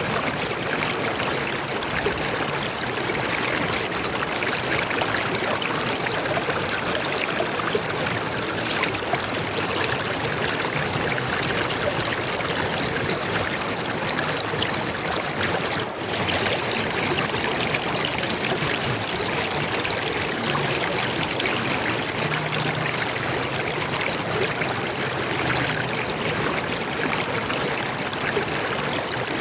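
Steady running water of a stream, trickling and splashing without pause, with a momentary dip about sixteen seconds in.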